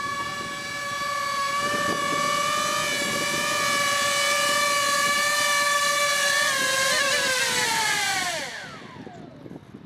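Electric motor and rotor of a small RC helicopter whining steadily at one pitch, then falling in pitch and dying away near the end as the rotor spools down.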